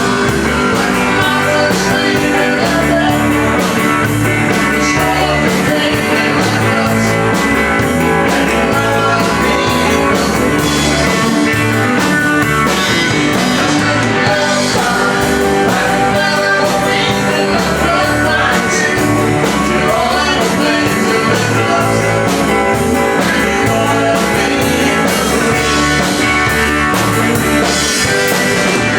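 Live country band playing a rock-tinged song, led by guitar over a steady beat.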